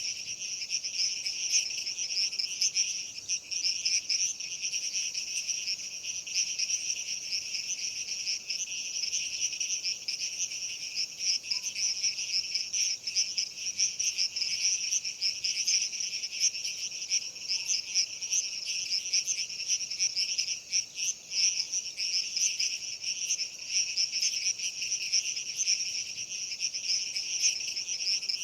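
Steady, dense chorus of chirping insects, many overlapping fast pulsing calls at a high pitch with no break.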